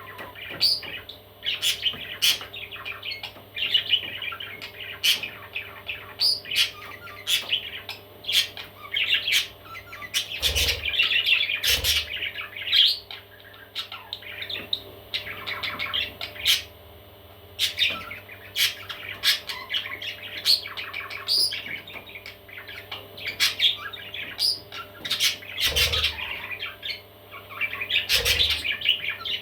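Baby parrots chirping and squawking in a steady stream of short, scratchy calls, with a few dull thumps now and then.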